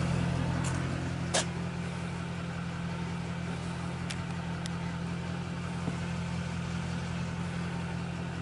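Tow truck's engine running steadily with a low, even hum while under way. There is a single sharp click about a second and a half in, and two faint ticks a few seconds later.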